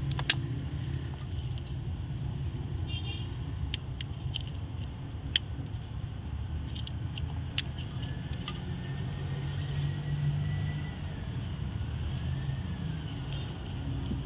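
Scattered sharp metallic clicks and clinks of hand tools at work on the engine's coolant hoses and fittings, over a steady low rumble.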